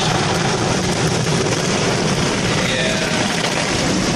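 Automatic car wash working over the car, heard from inside the cabin: a steady, dense rushing noise of the wash against the body.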